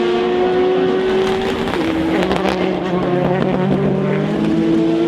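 Engines of Le Mans prototype and GT race cars running at speed. One engine's pitch climbs steadily, drops sharply at a gear change about two seconds in, then climbs again, while a second, lower engine note rises underneath.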